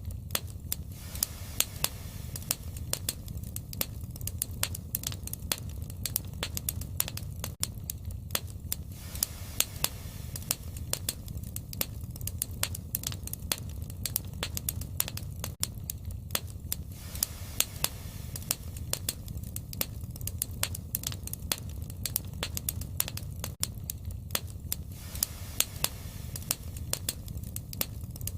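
Wood fire burning, with irregular sharp crackles and pops over a steady low rush of flame.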